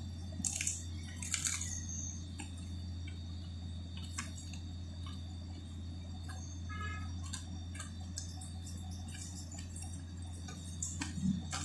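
Faint, scattered mouth clicks and smacks of someone chewing chicken, over a steady low hum.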